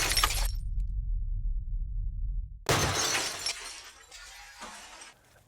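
Microwave oven running with a steady low hum; about two and a half seconds in the hum stops and a loud crash or shatter rings out, fading over the next two seconds.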